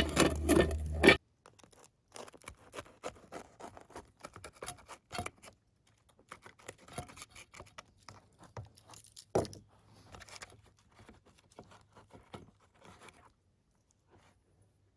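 A louder first second with a low steady hum that cuts off abruptly, then scattered light scratches, scrapes and taps of close handling noise.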